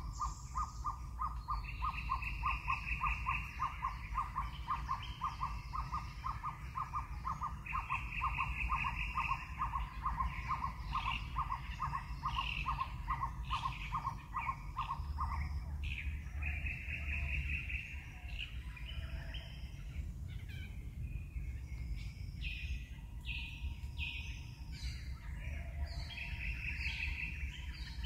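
Birds calling in trees: one gives a long, even series of notes, about three a second, that stops about halfway through. Higher buzzy trills come every few seconds over a low steady rumble.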